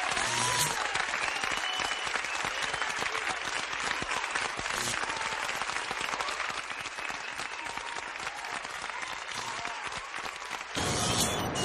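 Audience applauding, a dense patter of many hands clapping with a few faint whistles near the start. About eleven seconds in it cuts abruptly to a lower rushing noise.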